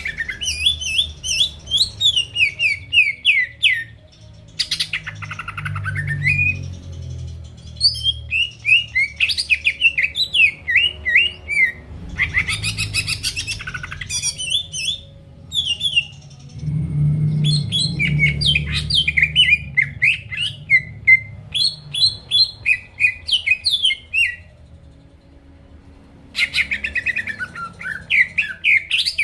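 Green leafbird (cucak ijo) in full song: long runs of rapid, sharp, mostly falling chirps and trills, broken by short pauses and one gap of about two seconds near the end. A low hum sits under the song.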